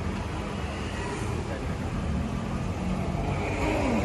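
Steady low rumble of street traffic and running engines, with faint voices in the background.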